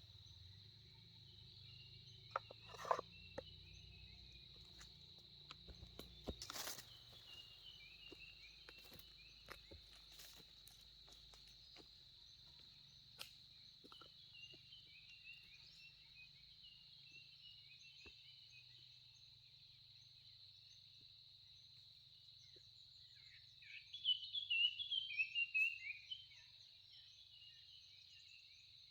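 A steady high-pitched insect drone, like crickets or cicadas in the field, with scattered knocks in the first part and a louder flurry of bird chirps near the end.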